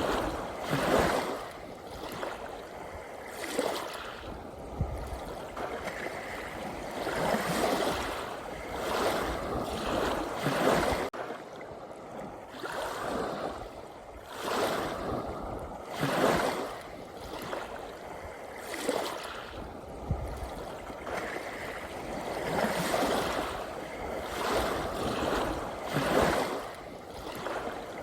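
Ocean waves breaking and washing on shore, a hiss that swells and ebbs every two to three seconds, with a sudden brief dip in level about eleven seconds in.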